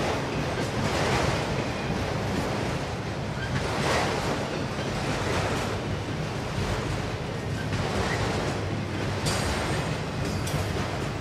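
Auto rack freight cars rolling past on steel wheels: a steady rumble of the train on the rails that rises and falls every second or two.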